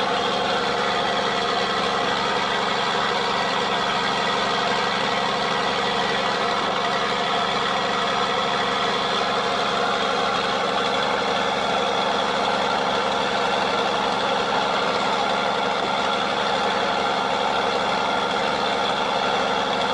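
Tugboat's Cummins turbo diesel engine running steadily under load, a constant even drone with no change in speed.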